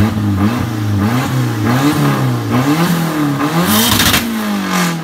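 Drift car's engine being blipped, revs rising and falling in quick repeated stabs, with a louder rasping rev about four seconds in.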